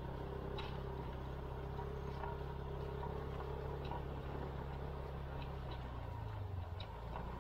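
SYM KRN scooter's engine running steadily under way, with a few light clicks; the engine note shifts about six seconds in.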